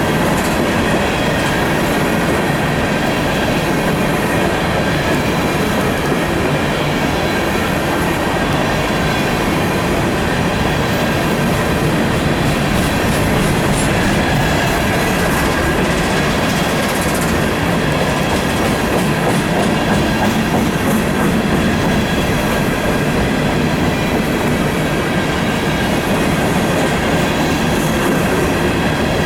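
Coal train's hopper cars rolling past steadily, the wheels clacking over the rail with a thin steady squeal.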